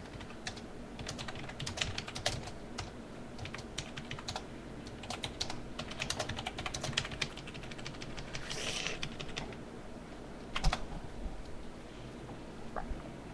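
Typing on a computer keyboard: irregular runs of keystrokes that thin out about three quarters of the way through. There is a brief hiss during the typing, and a single louder knock after it.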